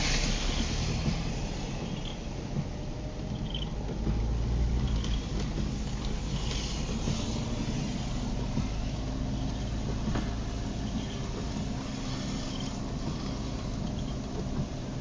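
Car interior while driving in the rain: steady engine hum and tyre and road noise, with a louder rush at the start and another swell a few seconds in. A faint short sound repeats about every second and a half.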